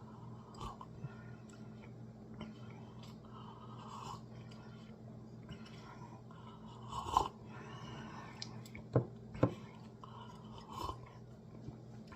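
Quiet sips and slurps of hot tea over a low steady hum, with two sharp knocks about three-quarters of the way through.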